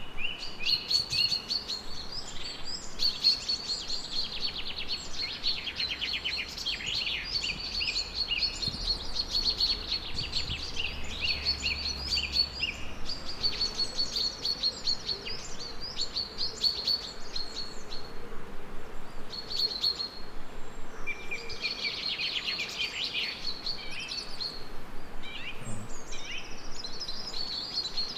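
Several songbirds singing at once, overlapping chirps and rapid trills, with a short lull about two-thirds of the way in, over a faint steady hiss.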